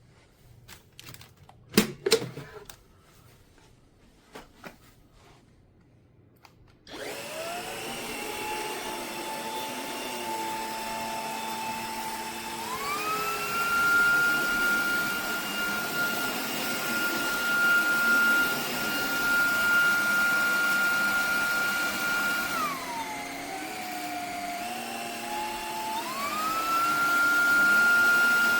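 Eureka RapidClean Pro cordless stick vacuum: a few handling clicks and knocks, then the motor switches on about seven seconds in with a rising whine. The whine holds, steps up to a higher speed setting, drops back lower about three-quarters of the way through, then climbs to the higher speed again near the end.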